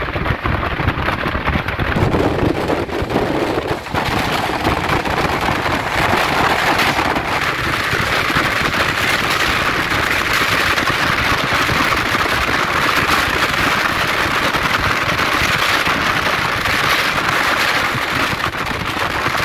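Train running at speed, heard from beside an open window: a steady rumble and clatter of wheels on the rails. It grows louder and harsher about four seconds in as the train runs onto a bridge.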